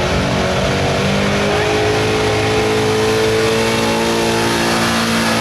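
Gasoline engine of a stock 1999 Ford F-250 running at high revs under heavy load while pulling a weight sled. Its pitch climbs slightly over the first few seconds, then holds steady.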